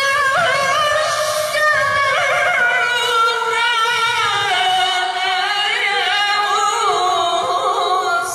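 A qari's voice reciting the Qur'an in tajwid style, holding a long, ornamented melismatic phrase with wavering pitch that steps lower about halfway through.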